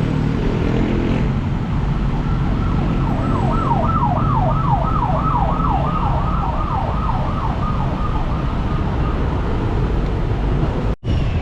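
An emergency vehicle siren sweeping rapidly up and down, about two to three sweeps a second, over a steady rumble of traffic. It fades in a few seconds in and trails off before the end.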